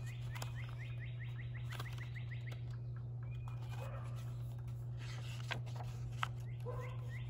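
A small songbird singing a rapid trill of short, high chirps near the start and again near the end, over a steady low hum.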